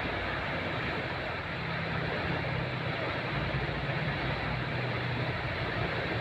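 Steady rushing of a river in flood, overflowing after heavy rain.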